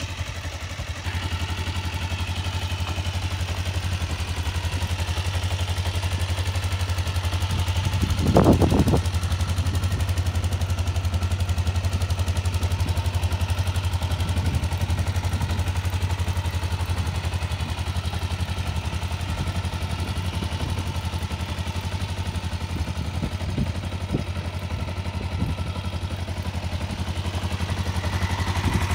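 Kawasaki Ninja motorcycle engine idling steadily, with one short louder burst about eight and a half seconds in.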